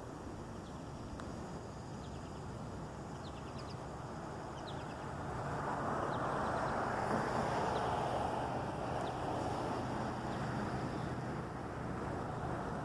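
Distant diesel commuter locomotive approaching, a low steady engine hum under outdoor background noise. A louder rushing noise swells from about five seconds in and eases near the end, with a few short bird chirps early on.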